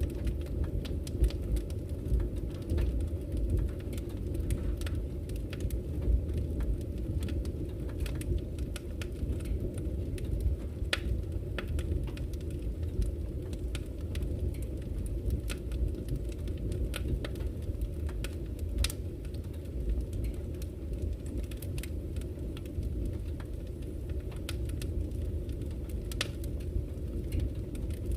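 Wood fire crackling with irregular sharp pops and snaps, over a steady low rush of flowing river water.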